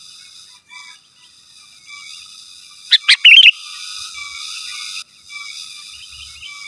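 Sooty-headed bulbul calling: a quick run of three loud, bubbling notes about three seconds in, over softer repeated chirps and a steady high background hiss.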